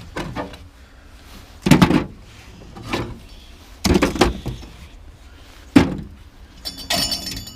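Scrap metal pieces clanking and knocking as they are handled and sorted, about six separate hits a second or so apart, each with a short ring. Near the end comes a brief burst of metallic jingling.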